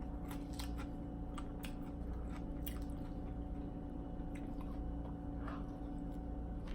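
Close-miked chewing of food, with scattered short wet mouth clicks and smacks, over a steady low hum.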